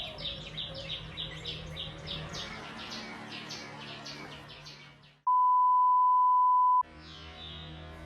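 A small bird chirping rapidly, about three or four sharp chirps a second, fading away about five seconds in. Then a loud steady electronic beep for about a second and a half, and soft background music after it.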